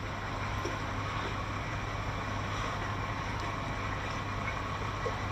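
A motor vehicle engine running at a steady idle, a constant low hum under an even background noise.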